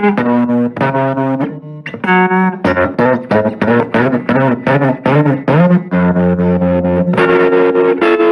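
Electric guitar played through a restored 1966 Fender Deluxe Reverb tube amp in a blues sound test: a run of picked notes with string bends, then a few long held notes near the end.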